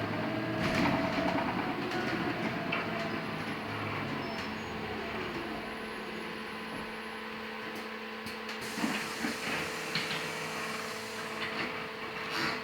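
Cabin noise inside a LiAZ-6274 electric bus: the electric drive and equipment give a steady hum with a gliding whine in the first couple of seconds, and a few clicks and knocks come in the second half.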